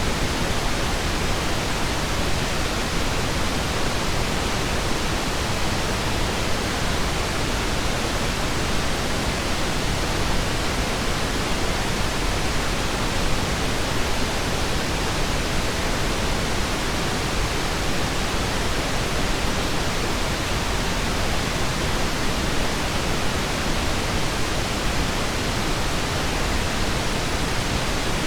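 Steady pink noise: an even, unchanging hiss across all pitches, with no tones, clicks or changes.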